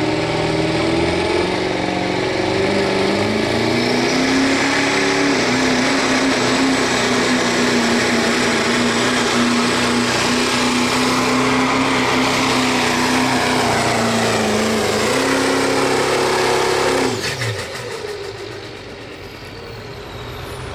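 2007 Chevrolet diesel pickup in the 2.6-inch-turbo class pulling a sled at full throttle. The engine climbs in pitch and holds hard under load for about seventeen seconds. Then the throttle is released and the engine winds down quickly, ending the pull.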